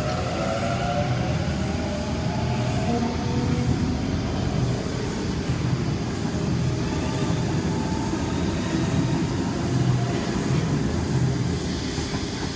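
Sydney Trains Waratah electric train pulling away from the platform. Its traction motors give a rising whine in the first second or two, under a steady rumble of wheels on the rails.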